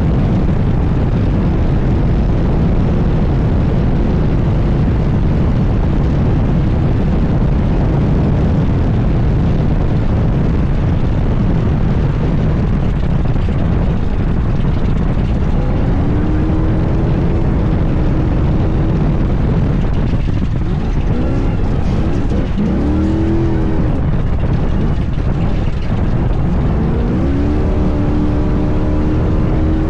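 International Race Cars Class 1 all-wheel-drive off-road race car running hard at speed, a dense loud rumble with the engine note dipping and climbing again several times in the second half as the throttle is lifted and reapplied.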